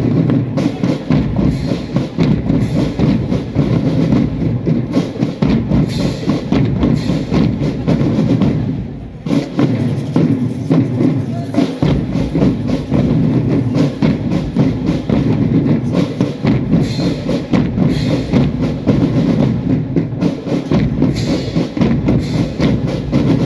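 Marching drum band playing loudly, with a dense, steady drumbeat; the sound dips briefly about nine seconds in.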